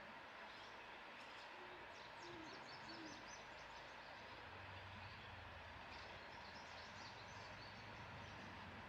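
Faint outdoor nature ambience: a steady hiss with scattered faint high chirps, and a few soft low hoot-like calls about two seconds in.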